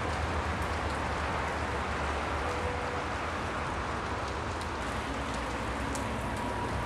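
Steady rain falling, with scattered faint drop ticks and a constant low rumble underneath.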